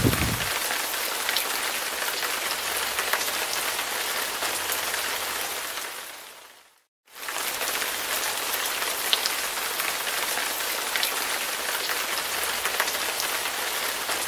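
Heavy rain falling steadily on wet paving and lawn, a dense hiss with scattered sharp drop clicks. About six seconds in it fades out to silence, then fades back in a second later and carries on as before.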